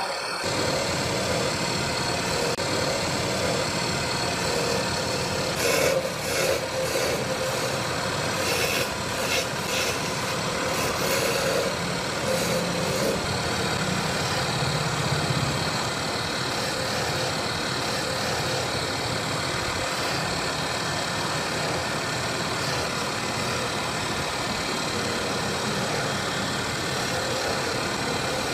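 A power tool's electric motor running steadily, with irregular scratchy contact noise for a few seconds near the start.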